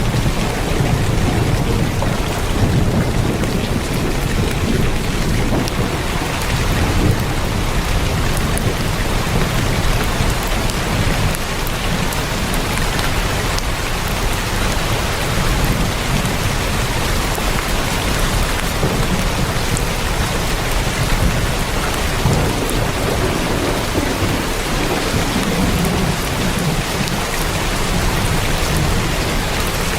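Heavy rain falling on a tin roof: a steady, dense patter with a low rumble underneath.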